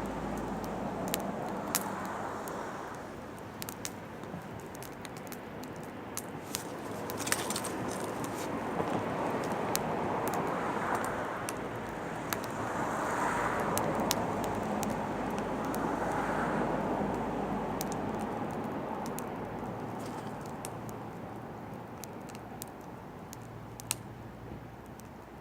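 Oak firewood burning in an open fire, crackling with frequent sharp, irregular pops and snaps. Under it runs a rushing noise that swells and fades every few seconds.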